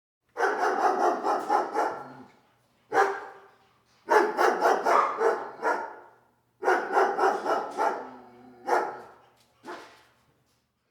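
A dog barking in quick runs of about five barks a second, three runs in all with single barks between them, the last two barks on their own.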